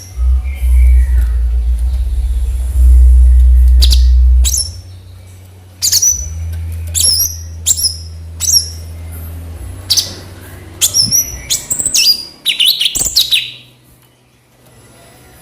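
Cucak cungkok songbird calling: a run of short, sharp, high whistled notes, each sliding quickly down, from about four seconds in, with a busier cluster near the end. Under the calls is a loud low hum, strongest in the first four seconds.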